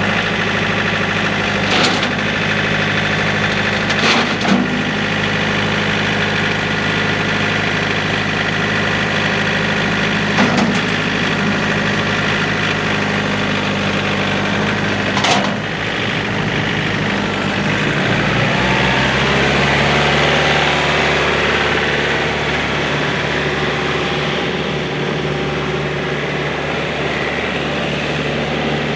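John Deere 4044M tractor's four-cylinder Yanmar diesel engine running steadily, with a few short knocks. Its note changes about two-thirds of the way through.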